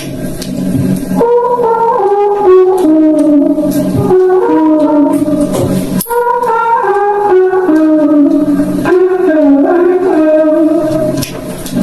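Music with a melodic phrase that repeats about every five seconds, played loud on a Mondial CM-700 portable Bluetooth speaker.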